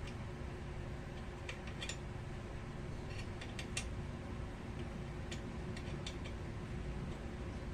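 Light, sharp clicks and ticks, singly and in small clusters at irregular intervals, from hand tools working on a motorcycle chain adjuster. A steady low hum runs underneath.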